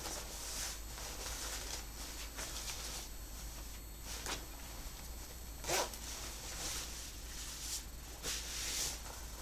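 Rustling and zipper sounds from an outdoor rain anorak being handled, in a series of short swishes.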